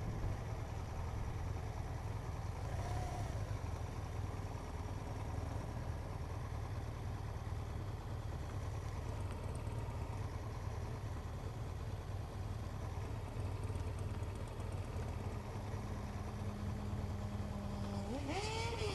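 Motorcycle engine running steadily at low speed, with a short rising-and-falling tone near the end.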